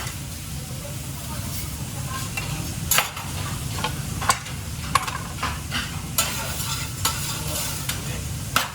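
Restaurant kitchen cooking sounds: food frying with a faint sizzle over a steady low hum, and utensils and pans knocking and clattering about six times.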